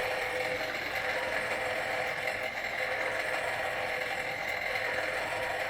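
A gas-fired Huxtable hot air Stirling engine running steadily and driving toy fairground rides by belt, a constant mechanical whir.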